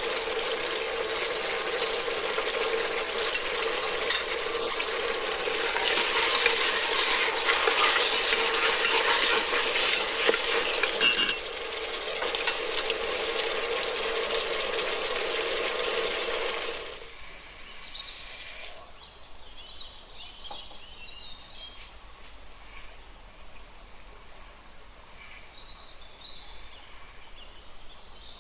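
Chicken, carrot and onion pieces sizzling as they fry in an Instant Pot's stainless inner pot, loudest for a few seconds in the middle. After about 17 seconds the sizzle stops, leaving a much quieter stretch with a few light clicks.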